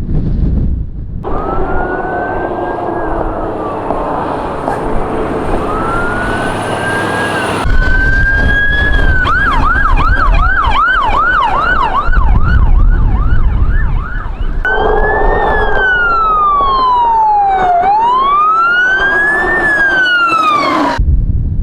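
Emergency vehicle sirens. A slow rising-and-falling wail gives way to a fast yelp of about two sweeps a second, then a slow wail returns. Wind rumbles under them, and the siren pattern changes abruptly a few times.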